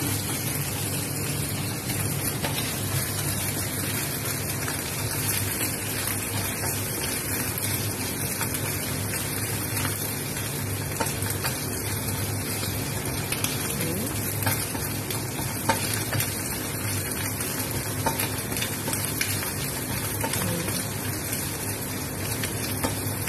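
Plant-based chicken pieces sizzling steadily as they fry in hot oil in a frying pan, with a wooden spatula scraping and turning them now and then. A low steady hum runs underneath.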